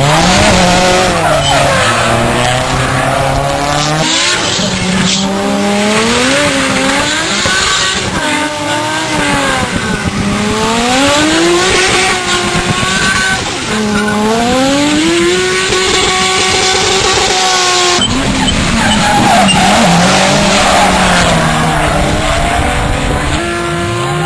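Drift car doing a burnout: the engine revs up and down again and again at high revs over the squeal and hiss of spinning rear tyres. There is a sudden break about three-quarters of the way through, after which the revving and tyre noise go on.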